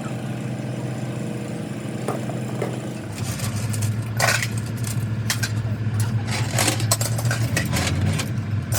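A steady low mechanical hum that grows louder about three seconds in, with a run of sharp knocks and clinks, like tools on metal, from about four seconds in.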